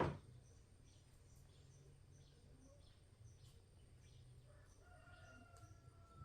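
Quiet outdoor ambience with a faint low hum, opened by a sharp click. About two-thirds of the way in comes a faint, drawn-out bird call that falls slightly in pitch over about two seconds.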